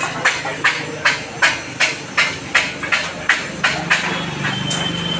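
Rapid, evenly paced hammer strikes on metal, about three a second, stopping about four seconds in.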